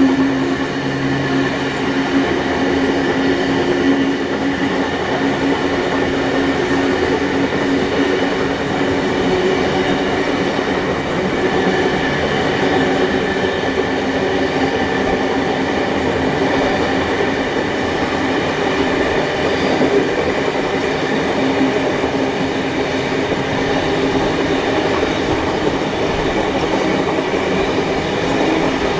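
Steady running noise of a passenger train on the move: wheels rolling on the rails and a continuous rumble with a few steady tones, heard from a carriage behind the steam locomotives.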